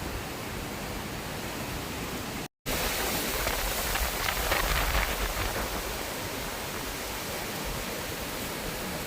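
Steady rushing noise of stormy weather, wind and rain on the open lookout. It cuts out completely for a moment about two and a half seconds in, then swells slightly a couple of seconds later.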